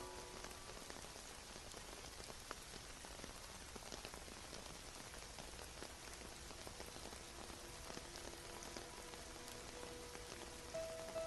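Steady rain falling, an even hiss with scattered drop ticks. Faint music notes come back in near the end.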